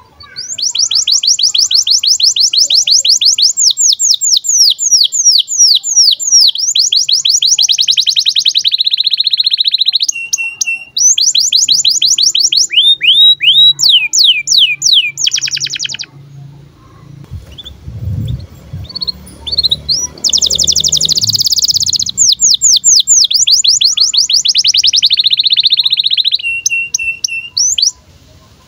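Male domestic canary singing in breeding condition: long, fast trills of rapidly repeated notes that change speed and pitch, in long phrases. There is a break of a few seconds in the middle, where only a low rumble is heard.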